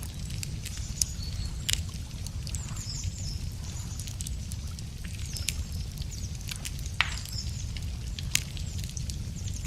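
Wood fire crackling with sharp pops, the loudest about a second in, near two seconds and around seven and eight seconds, over a low steady rumble. Small birds chirp and twitter high above it several times.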